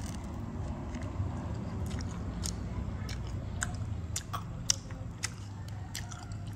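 A person chewing and eating steamed pork siu mai close to the microphone, with scattered wet smacks and clicks that grow thicker after the first couple of seconds.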